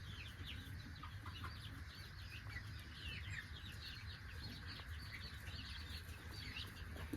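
Flock of desi chickens calling softly: many short, high calls overlapping, with a steady low hum underneath.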